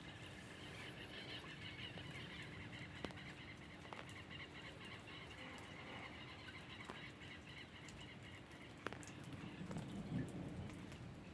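Faint, rhythmic high-pitched chirping from calling animals, with a few sharp clicks and a low rumble rising near the end.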